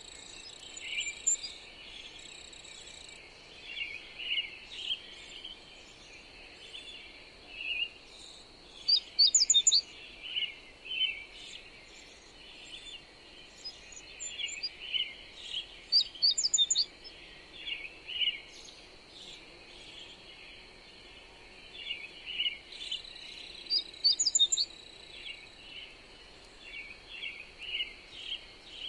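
Birds singing with many short chirps and a high, quick phrase that comes back about every seven or eight seconds, over a steady thin high tone and a soft even hiss.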